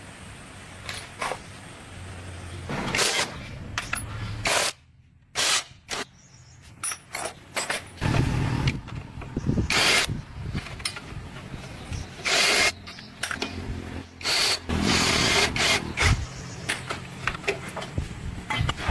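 Irregular workshop repair noises: knocks, scrapes and short noisy bursts of tool work, with a brief lull a few seconds in.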